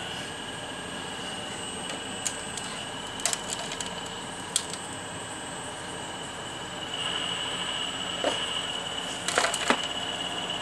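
Radio-controlled scale excavator working, its motor giving a steady high whine that grows stronger about two-thirds of the way in. Several sharp clicks and knocks of the machine's parts and material come over the whine, the loudest a quick cluster near the end.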